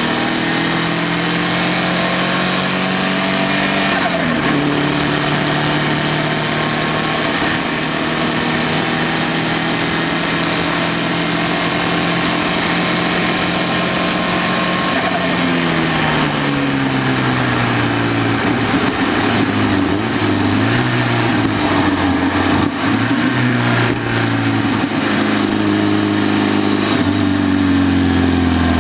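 Turbocharged 16-valve four-cylinder engine of a Fiat barchetta, heard from inside the engine bay, running at steady revs with a short drop about four seconds in. About halfway the high end falls away and the revs sink to a low, uneven note, then climb again near the end.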